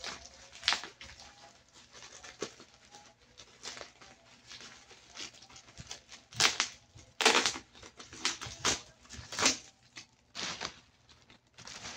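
Plastic bubble wrap crinkling and rustling as it is pulled off and handled by hand. Several louder crackles come in the second half.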